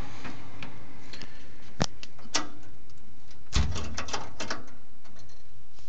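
Scattered sharp clicks and knocks of hands working on parts inside a gas furnace cabinet: single taps about two seconds in, then a quick cluster of clicks around the middle.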